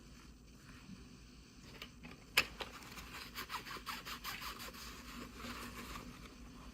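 Toy packaging being handled during unboxing: one sharp click about two seconds in, then a few seconds of quick crinkling and clicking.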